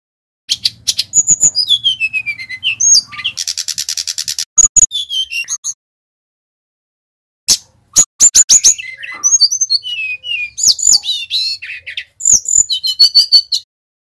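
Sikatan rimba dada coklat (jungle flycatcher) singing: phrases of sharp, high whistled notes and falling slurs, with a fast buzzy trill about four seconds in. The song breaks off for a pause of about two seconds, then starts again with more whistles and chips.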